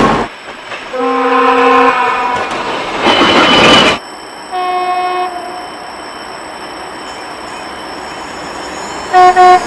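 Locomotive air horns (typhons) sounding in several separate blasts, with the noise of a passing train between them. There is a horn of about a second near the start, a shorter horn near the middle, then steady train rumble, and two short, loud blasts near the end.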